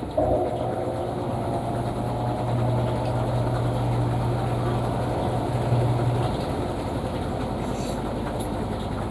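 Panasonic washing machine's motor running with a steady low hum. It starts just after the beginning, stops about six seconds in, and leaves a quieter mechanical noise.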